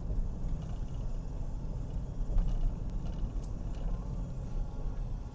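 Steady low rumble of a car driving, heard from inside the cabin, with a few faint light ticks.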